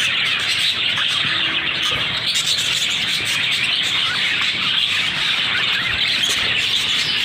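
A flock of budgerigars chattering and chirping together, a steady dense twittering with no pause.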